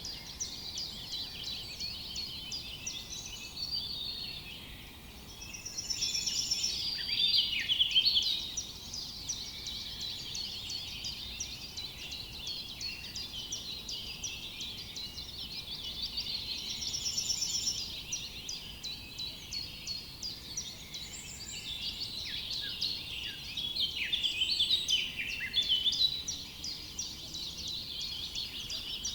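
Forest dawn-chorus-like birdsong: many birds chirping and trilling at once in a dense, overlapping chorus, swelling louder twice, about a quarter of the way in and again near the end.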